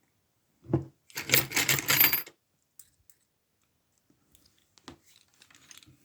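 Small metal pieces clinking and rattling for about a second, with a light knock just before, then a few faint clicks near the end: lock-picking tools and the brass-and-steel padlock being handled.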